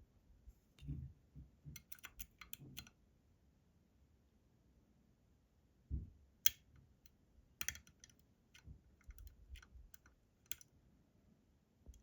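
Lock picks working inside a Robur 2391 lock: irregular small metallic clicks and taps as the pins are worked, with a quick cluster of clicks about two seconds in, sharper single clicks a little past the middle, and soft handling bumps in between.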